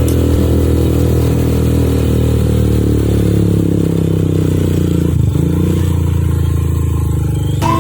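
Motorcycle engine running steadily while riding, with a brief dip in pitch about five seconds in.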